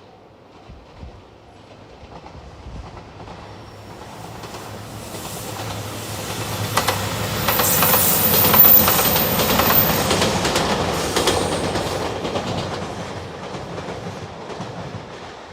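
Train passing at speed: the rumble grows, peaks about eight to ten seconds in and fades away, with a rapid clatter of wheels over the rail joints as the cars go by.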